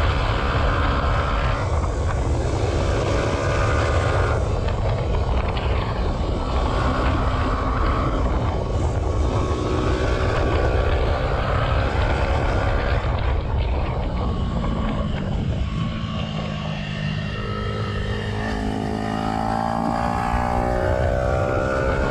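Yamaha YZF-R125's single-cylinder four-stroke engine, with the dB killer removed from the exhaust, pulling the bike along at varying revs. Around two-thirds of the way through the revs drop and it gets a little quieter, then the engine note climbs steadily as it accelerates.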